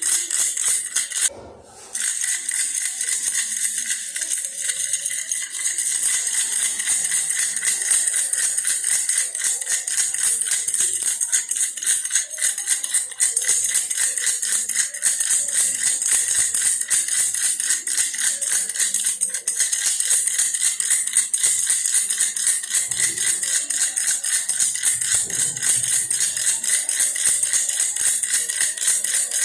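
Baby rattle in a toy bear shaken steadily and fast, a dense, high rattling that breaks off for a moment about a second and a half in.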